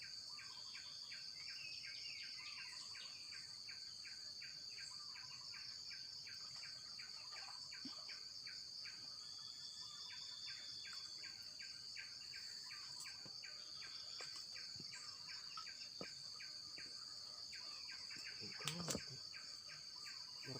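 Insects calling: a steady high-pitched drone with a regular chirping pulse about three times a second alongside it. A brief thump near the end.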